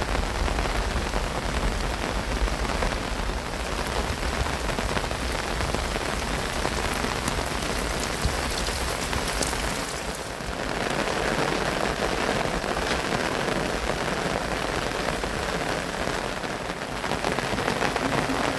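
Heavy monsoon rain falling steadily, a dense hiss of rain on surfaces, with a low rumble under it for about the first half and two brief slight lulls.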